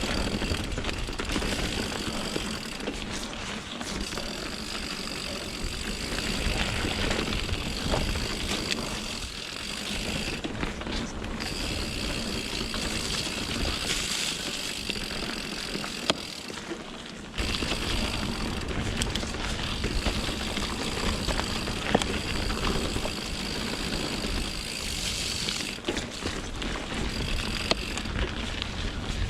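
Mountain bike being ridden over rocky singletrack: steady tyre and trail noise with scattered knocks and rattles from the bike.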